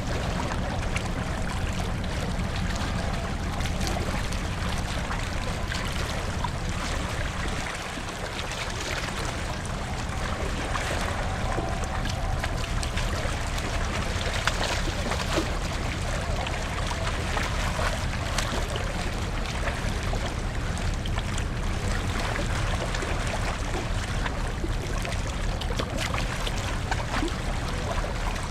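Hankyu Ferry's car ferry New Akashi under way: a low, steady engine drone under a continuous rush of water.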